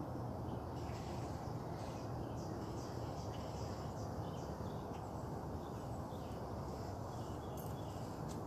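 Backyard dawn ambience: scattered short bird calls and chirps over a steady low rumble of background noise.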